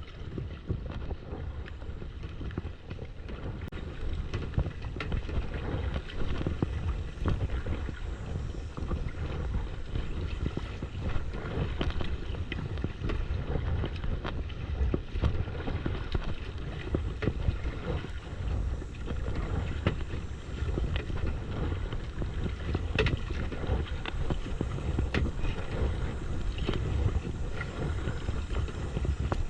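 Wind buffeting the microphone on a kayak out on the water: a steady low rumble, with many short, irregular clicks and splashes over it.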